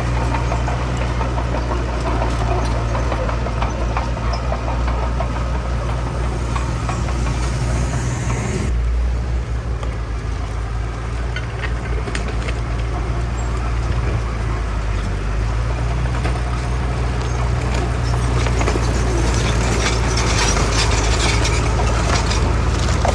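Heavy diesel earthmoving machinery running steadily with a deep engine drone. The sound changes abruptly about nine seconds in, and scattered metallic clattering joins it in the last few seconds.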